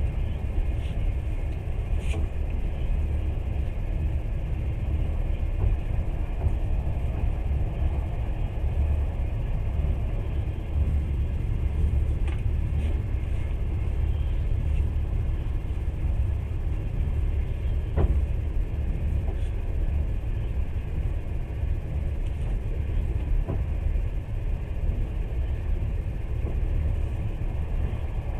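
Passenger train carriage in motion, heard from inside: a steady low rumble with a few faint clicks, one sharper click about eighteen seconds in.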